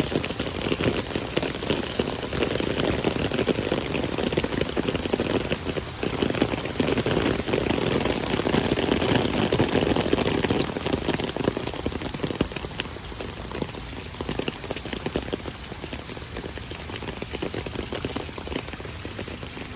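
Heavy rain pouring down on pavement in a steady downpour. It eases somewhat about two-thirds of the way through.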